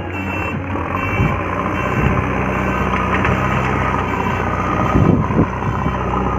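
Heavy diesel vehicle engine running steadily while a truck is loaded with clay, with a few dull thumps about one, two and five seconds in.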